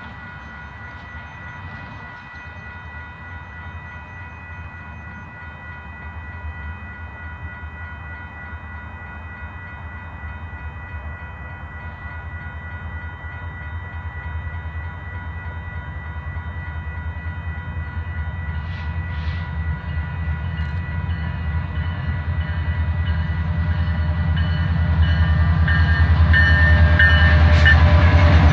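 Grade-crossing signal bell ringing steadily while the Canadian Pacific Holiday Train's diesel locomotives approach, their low rumble growing steadily louder until the train is passing close by near the end, cars clattering over the crossing.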